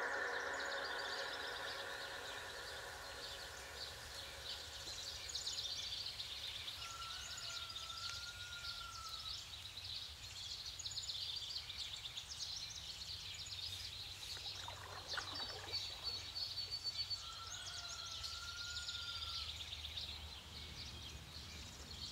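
Outdoor ambience of birds: a dense, steady chirping high up, with a whistled call that rises and falls, heard twice, about ten seconds apart.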